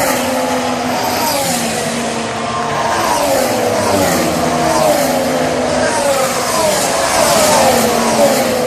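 Onboard sound of a 2014 Formula 1 car's 1.6-litre turbocharged V6 at racing speed. The engine note rises and falls repeatedly as the gears change.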